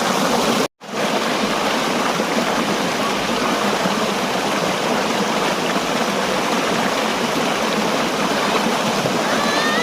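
Steady rush of water from a cascading waterfall stream. It cuts out for an instant just under a second in.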